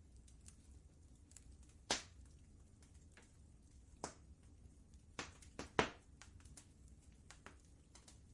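Wood fire crackling, with scattered sharp pops, the loudest about two seconds in and a quick cluster between five and six seconds, over a low steady rumble.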